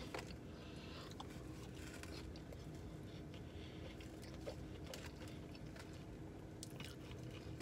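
Faint chewing and crunching of fried food, with scattered small clicks and scrapes against a foam takeout box, over a steady low hum.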